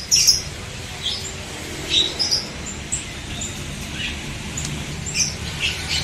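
Small caged birds chirping in short, scattered, high calls over a steady low background noise.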